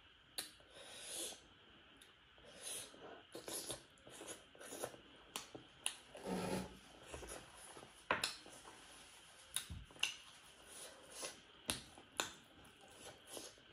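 Close-up chewing and mouth smacking as a person eats pork liver: irregular wet clicks and smacks every half second or so, with breathing between them.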